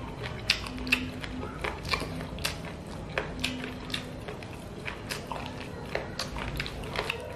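Close-up eating of spicy chicken feet with rice: chewing and biting with irregular sharp mouth clicks and smacks.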